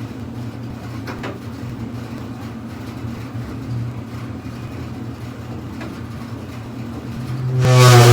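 Whirlpool WGD5010LW gas clothes dryer running with a steady low hum, the abnormal noise it is being filmed for, with a few faint ticks. Near the end a much louder sound with a steady pitch suddenly comes in.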